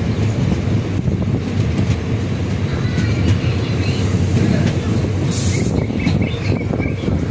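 Passenger train running along the line, heard from on board: a steady low rumble of wheels on track. A brief hiss comes a little past five seconds in.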